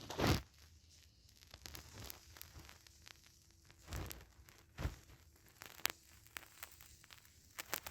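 Scattered clicks, light knocks and rustling of hand tools and metal parts being handled during engine disassembly, with a few louder knocks near the start and around four to five seconds in.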